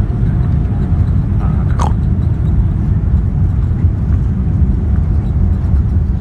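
Cabin noise of a Boeing 787-9 early in its takeoff roll: the Rolls-Royce Trent 1000 engines at takeoff power and the wheels on the runway make a loud, steady, deep rumble.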